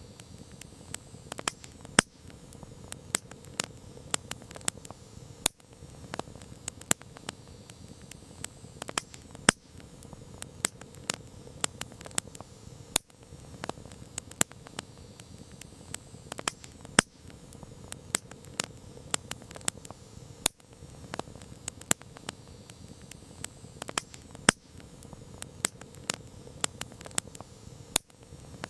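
Campfire crackling: frequent, irregular sharp pops and snaps of burning wood over a soft, steady hiss of the flames.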